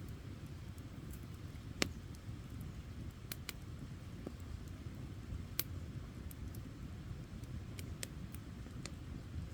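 Campfire burning: a steady low rumble with scattered sharp crackles and pops of the burning wood. The loudest pop comes about two seconds in, another a little past halfway.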